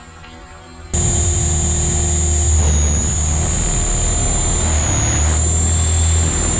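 Electric RC helicopter in flight: a loud, steady high-pitched motor and rotor whine over a low rumble. It starts suddenly about a second in, and its pitch dips slightly twice.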